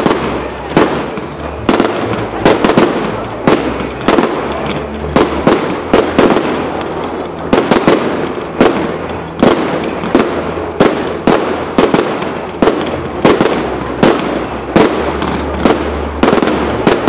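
Firework display: a rapid, loud series of aerial shell bursts, about one to two bangs a second, each trailing off before the next.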